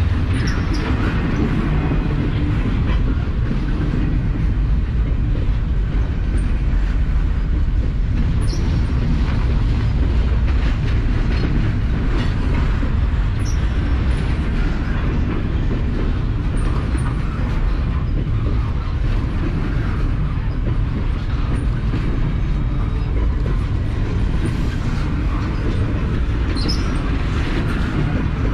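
Norfolk Southern double-stack intermodal freight train's loaded well cars rolling past close by: a steady, heavy rumble and rattle of steel wheels on rail, with a few brief high-pitched wheel squeals.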